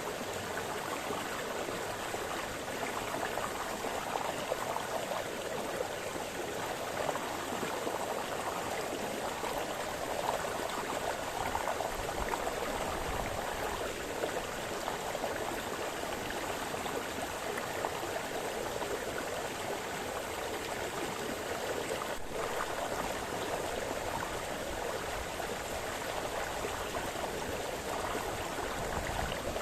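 Small brook splashing and babbling over stones: a steady, continuous rush of water with small flickering splashes.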